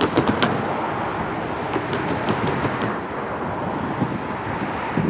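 Freight train passing close by: a steady rumble and rush of rolling wheels, with sharp clicks at the start and again around two seconds in.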